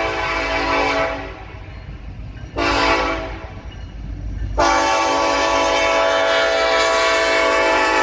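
Diesel locomotive air horn sounding over the low rumble of the passing train: a long blast that ends about a second in, a short blast, then another long held blast from a little past halfway. The long, short, long run fits the close of the standard grade-crossing signal.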